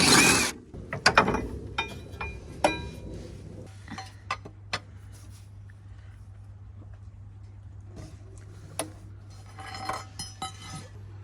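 Metal parts and tools clinking and clanking during work on a car's front drive shaft. A loud clatter comes right at the start, then scattered sharp, ringing clinks, with a steady low hum underneath.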